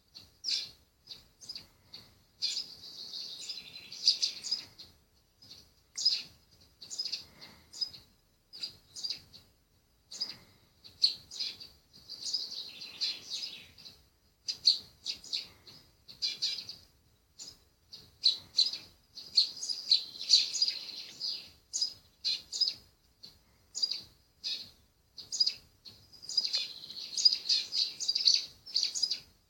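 Small birds chirping from a bird video played through a device's speaker. Short high chirps come every second or so, with several bursts of rapid twittering.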